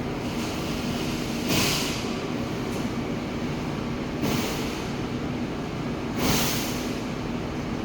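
A machine running with a steady hum, broken by three short, loud hisses about two seconds apart.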